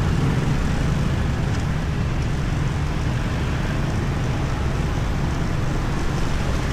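Motorbike ride through city traffic: steady engine, road and traffic noise with a heavy low rumble.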